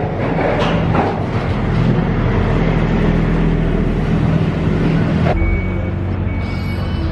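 Train noise at a station: a loud, steady rumble with a low hum. About five seconds in it changes abruptly to a steadier hum with a faint high tone.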